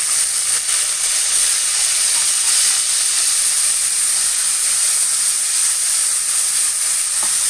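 Ginger-garlic paste frying in hot oil in an aluminium kadai: a loud, steady sizzle.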